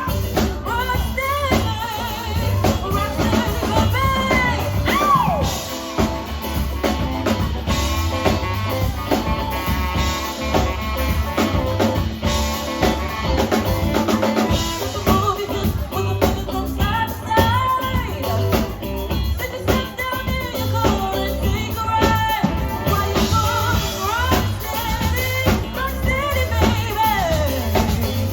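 Live rock band playing a song, with drum kit, bass and singing.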